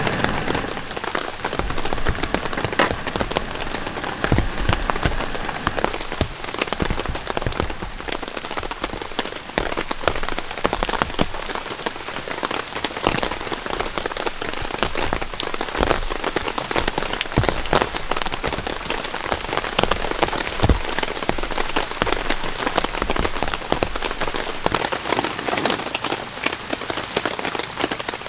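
Steady rain falling, with many single drops tapping close by.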